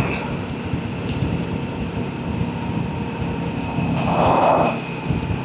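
Yamaha XV650's air-cooled V-twin engine running at a steady cruise, with wind and road noise on the rider's helmet microphone. A brief louder rush of noise comes about four seconds in.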